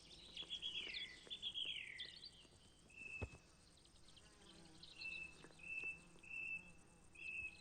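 Faint birdsong: two falling whistled notes in the first two seconds, then a run of short, steady high notes.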